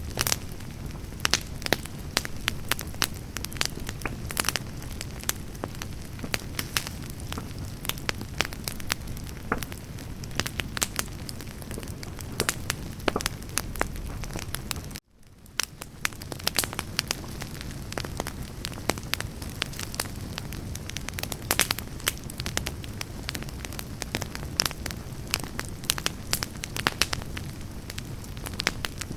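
Firewood burning in an open campfire, crackling steadily with frequent sharp pops over a low rumble of flame. About halfway through the sound cuts out for a moment and then fades back in.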